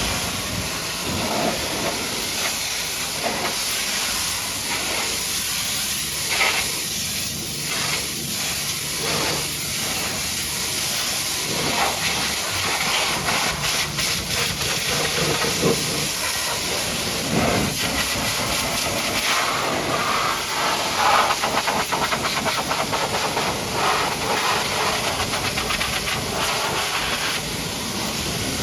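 High-pressure washer jet spraying water onto a muddy truck: a loud, steady hiss of spray whose tone changes now and then as the jet strikes different surfaces.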